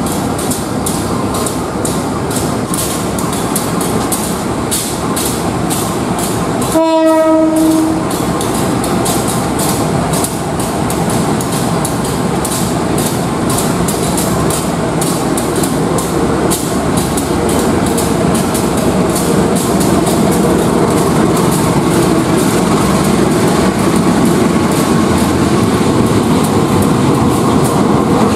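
A diesel-hauled passenger or parcel train passing close by, its wheels clacking steadily over the rail joints. The locomotive's horn sounds once, a single note lasting about a second, roughly seven seconds in.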